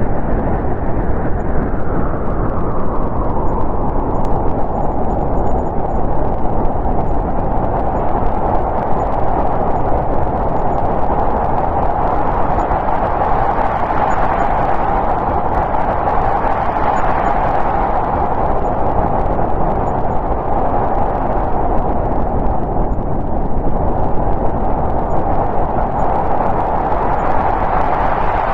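Snowstorm wind blowing as a steady, dense rushing noise, swelling into gusts near the start, in the middle and again near the end.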